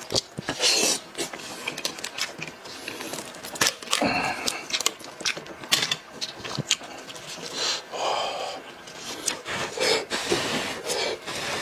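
Close-up mouth sounds of chewing spicy braised sheep's head meat: wet clicks and smacking, mixed with the tearing and rubbing of meat being pulled from the skull by gloved hands.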